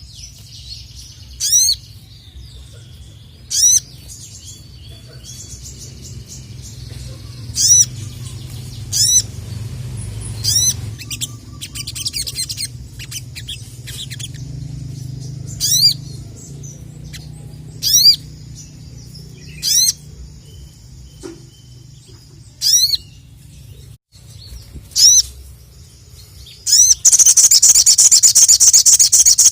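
A sogon (crimson sunbird) calling: short, sharp, downward-sweeping notes repeated about every two seconds, then near the end a loud, rapid, unbroken high chatter.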